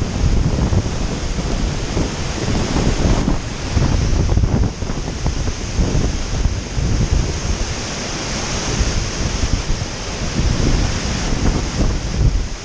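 Strong gusty wind buffeting the microphone, a heavy rumble that swells and drops with each gust over a steady rushing hiss.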